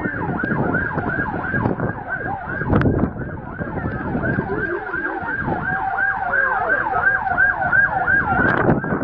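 Emergency vehicle siren in a fast yelp, its pitch sweeping up and down about three times a second, over a steady din of background noise.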